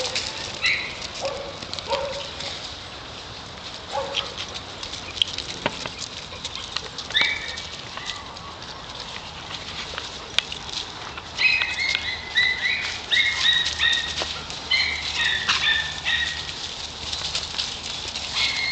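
A group of dogs moving about and playing on the ground: scuffling and pattering of paws, with short high-pitched calls, a quick run of them about twelve seconds in.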